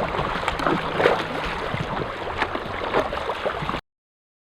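Water splashing and lapping, a steady rush with many small irregular splashes, cutting off abruptly to silence near the end.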